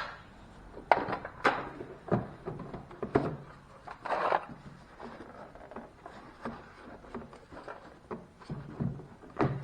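Irregular knocks and clunks of hand tools and loosened parts being handled while a zero-turn mower's control-arm assembly is unbolted.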